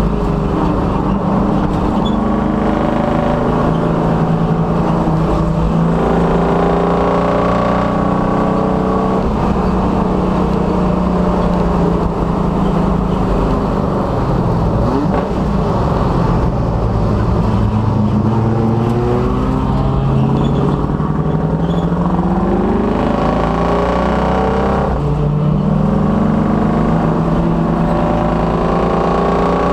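1966 Dodge Dart race car's engine under hard acceleration on track. Its pitch climbs through the revs and drops at each gear change, falls away for a slower stretch about halfway through, then builds again.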